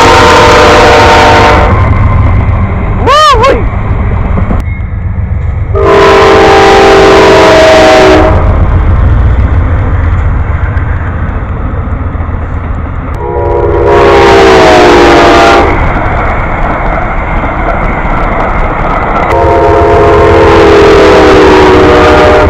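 Diesel locomotive's multi-chime air horn sounding a series of long blasts, each a chord of several notes held two to three seconds, over the steady low rumble of the passing train. A brief high squeal comes about three seconds in.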